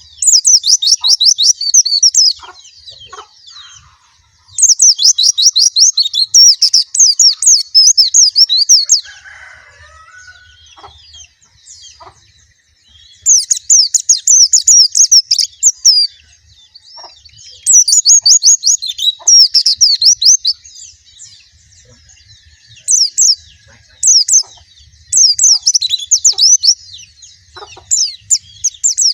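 White-eye (pleci) singing in repeated bursts of rapid, high chirping notes. Each burst lasts two to four seconds, with short pauses between.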